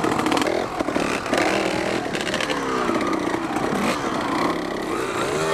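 Dirt bike engine running under way, its pitch repeatedly rising and falling as the throttle is opened and closed.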